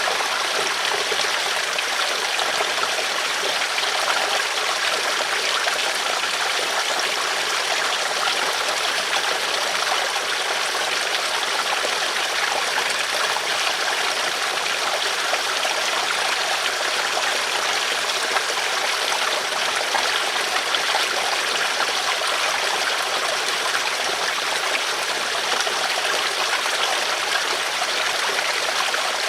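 River water flowing over stones, a steady babbling rush that stays even throughout.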